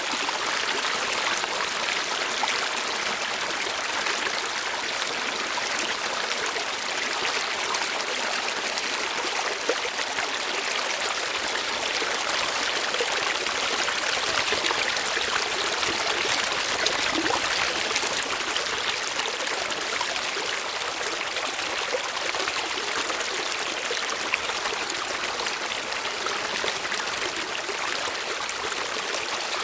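Steady flowing water of a stream, an even rushing trickle without changes or low rumble.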